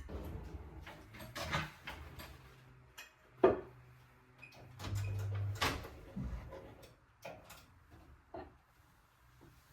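Kitchen handling noises: scattered knocks and clicks of dishes, utensils or a cupboard or drawer, the sharpest about three and a half seconds in, with a short low hum about five seconds in.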